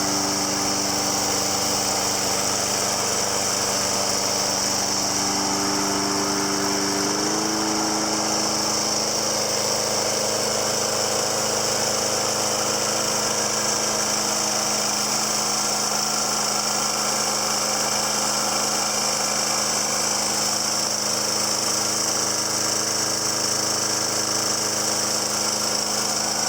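Snapper Big 6 lawn mower's 6 hp Briggs & Stratton engine running steadily; its pitch steps up slightly about seven seconds in and then holds.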